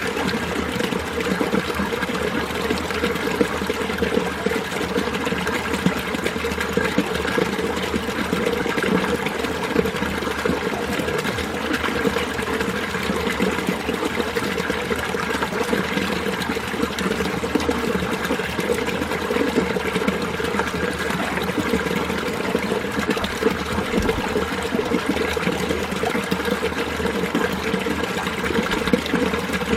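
Winter mountain stream flowing steadily over rocks, the water running and trickling without a break.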